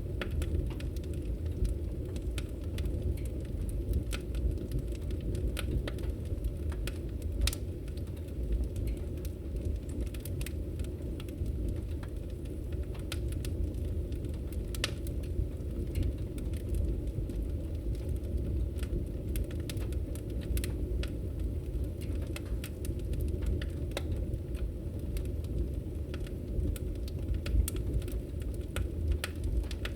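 Logs burning in a fireplace: irregular crackles and pops over a steady low rumble of the fire.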